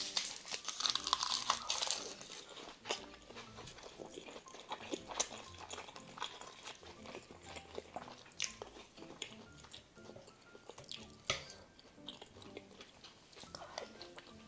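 Close-up eating sounds: a bite into a roasted-seaweed wrap of rice, kimchi stew and Spam, crackling for about the first two seconds, then wet chewing with scattered smacks and clicks. Soft background music runs underneath.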